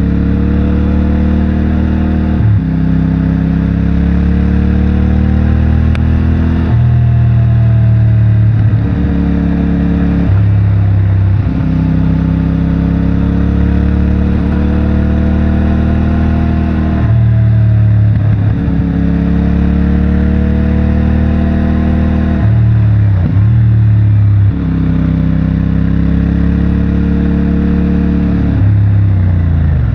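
CFMOTO 450MT's parallel-twin engine through its stock exhaust, under way and repeatedly pulling with the pitch climbing slowly, then dropping abruptly as the throttle closes or a gear changes, every few seconds.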